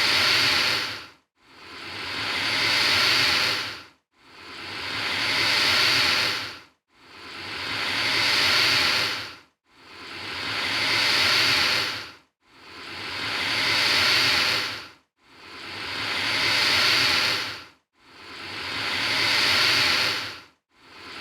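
Alligator hissing in a steady loop: the same breathy hiss repeats about every 2.7 seconds, eight times. Each one swells over a couple of seconds and stops abruptly, with a brief silence before the next.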